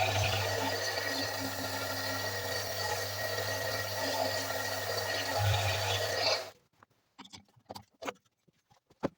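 An electric power tool running steadily on the work, cutting off suddenly about six and a half seconds in, followed by a few sharp knocks.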